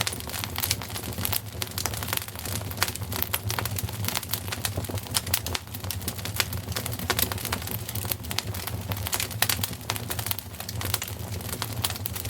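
Wood fire crackling in a fireplace: quick, irregular pops and snaps over a steady low rumble.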